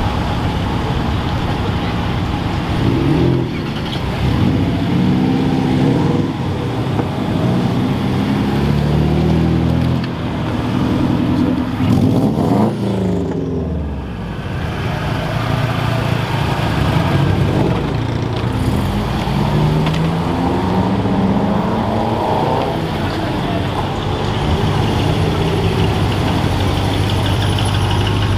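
Car engines running nearby, with one revving so that its pitch rises and falls about halfway through, as cars idle and pull away.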